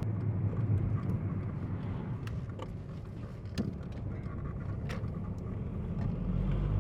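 Cabin noise of an MK5 VW Golf's 2.0 TDI four-cylinder diesel during a test drive: a steady low engine and road rumble with a few light clicks, growing a little louder near the end.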